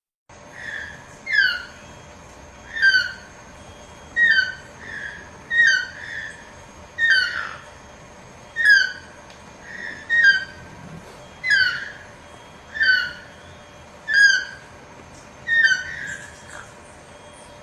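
A bird of paradise calling: a short, loud, downward-sliding call repeated about every one and a half seconds, a dozen times, over a faint steady hum.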